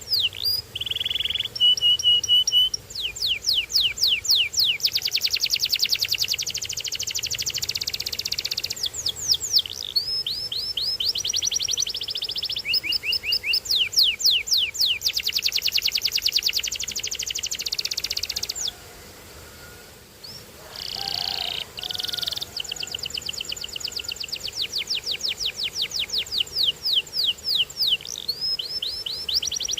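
Domestic canary singing a long song of rapid trills, fast repeated sweeping notes and short steady whistled notes. The song breaks off for about two seconds past the middle, then starts again.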